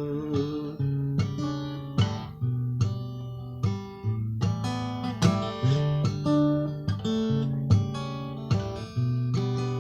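Acoustic guitar in DADGAD tuning playing an instrumental passage, picked and strummed in a steady rhythm with ringing open strings.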